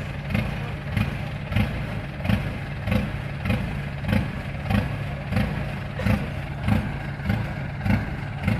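Diesel engine of a Kubota rice combine harvester running steadily, with a regular thump about every half second.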